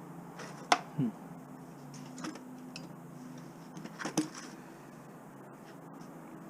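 Hand snippers clipping scrap metal and wire: a few sharp snaps and clinks, the loudest about three quarters of a second in, then another just after, and a double snap about four seconds in.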